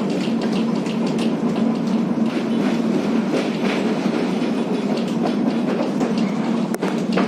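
Old, worn-out tram running on rails, heard from on board: the wheels clatter and the body rattles over a steady low hum, with a sharper click near the end.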